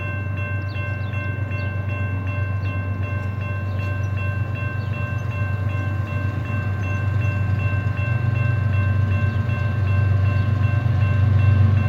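Diesel freight train approaching, its low locomotive rumble growing steadily louder, with a ringing warning bell over it, typical of a grade crossing.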